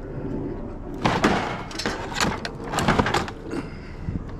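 Handling noises as a tie-down strap and the scrap load are shifted: a string of knocks, scrapes and rattles starting about a second in.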